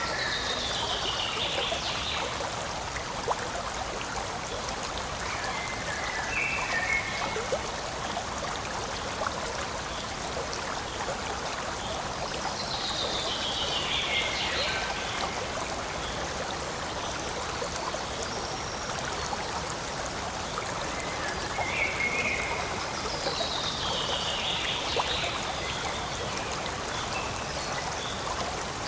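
Forest stream flowing and trickling steadily. A high falling call repeats three times, about every eleven seconds.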